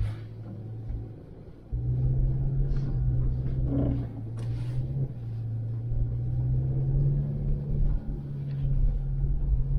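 A vehicle engine running steadily with a low, even hum and rumble, starting up about two seconds in.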